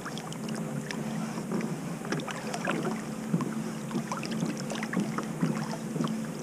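Small irregular splashes, drips and light knocks around a kayak as a crab trotline is pulled up over it, with a faint steady hum underneath.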